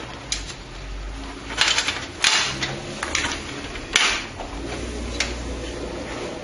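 Hands handling computer parts and their packaging: about six short, irregular clicks and rustles of plastic and metal.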